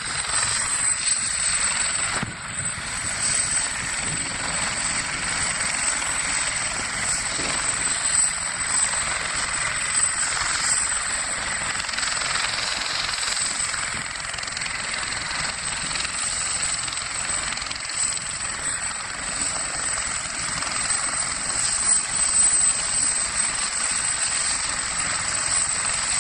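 Helicopter running: a steady rushing noise with a constant high whine over it.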